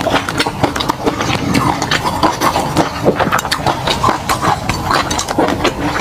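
Close-miked chewing and wet mouth sounds of a person eating: a dense run of smacks and clicks.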